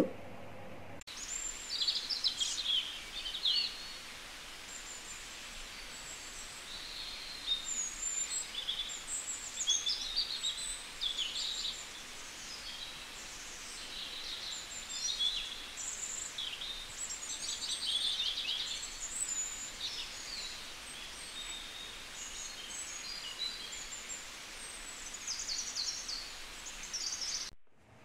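Several birds chirping and trilling in quick, overlapping high calls, over a faint steady background hiss.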